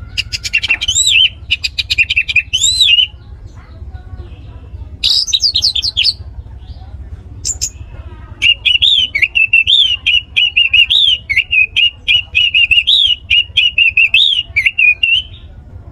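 Orange-headed thrush (anis merah) singing in bursts of quick warbling, whistled phrases, the longest running from about eight seconds in to near the end, over a low hum.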